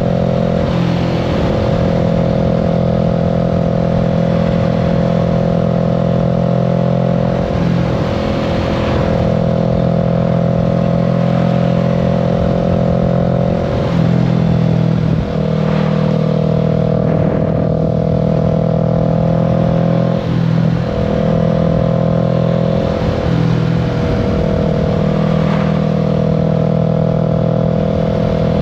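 Kawasaki Z650's parallel-twin engine running while riding, heard loud and steady, with brief dips and changes in engine pitch every five to seven seconds.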